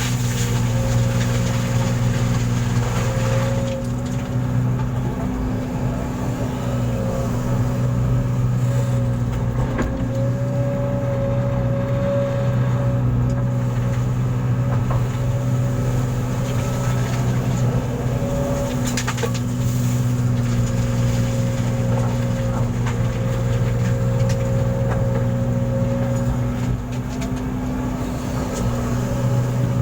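Engine running steadily at a constant speed, a low even drone, with a few knocks now and then.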